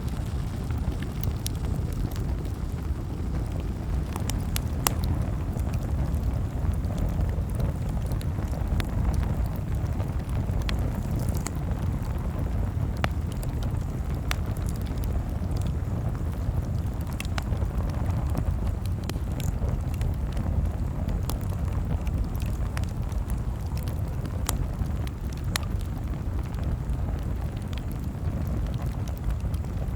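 Campfire crackling, with scattered sharp pops every second or so over a steady low rumble.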